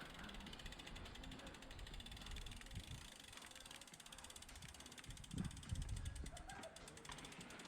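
Mountain bike rear hub freewheel clicking rapidly and evenly as the bike coasts down the trail, with a low rumble about two-thirds of the way in.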